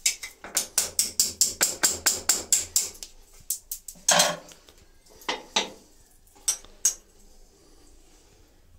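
Hammer striking a screwdriver held against the wall to knock in a starting mark for drilling: a fast run of sharp metallic taps, about five a second for some three seconds, then a few scattered knocks and a short rasp.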